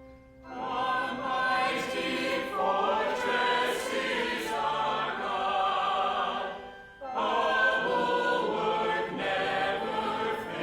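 A choir singing in long held phrases, which break off briefly about seven seconds in and then resume.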